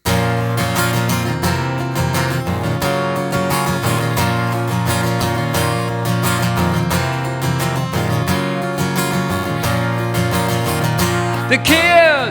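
Instrumental intro of a country-style song with strummed acoustic guitar. A voice comes in with a sliding note near the end.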